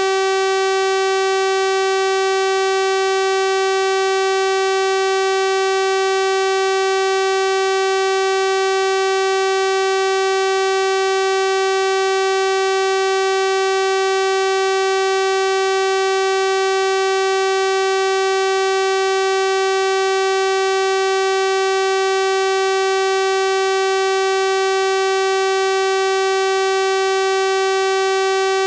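Synthesized 384 Hz sawtooth-wave tone, held steady and unbroken: a buzzy, bright electronic note rich in harmonics.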